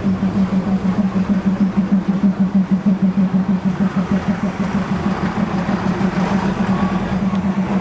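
Diesel engine of the market train running with a steady low throb that pulses about four to five times a second.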